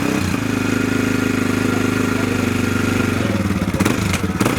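Motorcycle engine idling steadily close by, with a few sharp clicks or knocks near the end.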